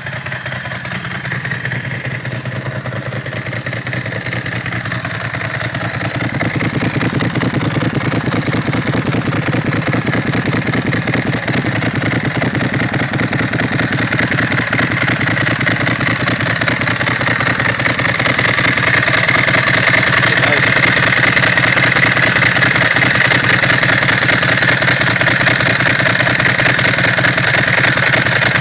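Ducati SuperSport 1000 SS air-cooled V-twin idling steadily through stainless-steel aftermarket cans as it warms up on its first start of the year. It gets louder in two steps, around a quarter of the way in and again past halfway.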